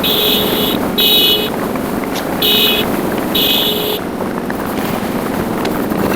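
Steady wind and road noise of a motorcycle on the move. A high electronic beep sounds in four short bursts during the first four seconds.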